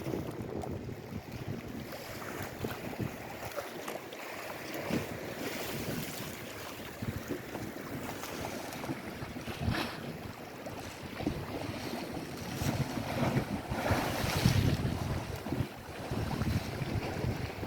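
Wind buffeting the microphone over lake waves washing on the shore, in uneven gusts, with the strongest gust rumbling about three-quarters of the way through.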